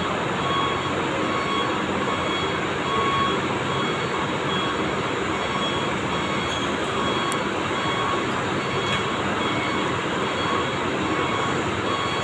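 Large diesel coach engine running steadily, with a reversing alarm beeping evenly a little under twice a second.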